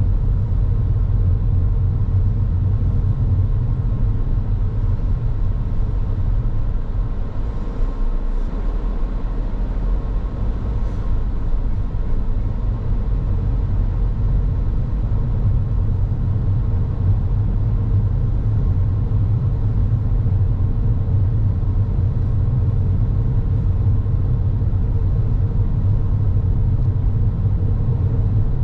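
A car being driven along a road: a steady low rumble of engine and tyre noise, with a faint steady hum above it.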